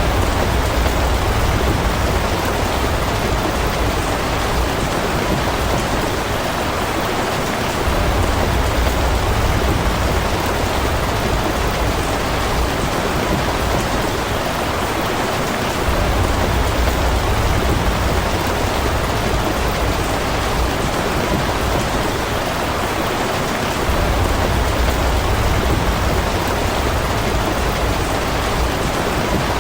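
Steady rain falling, an even hiss throughout. Every eight seconds or so a low rumble swells in for a few seconds and fades.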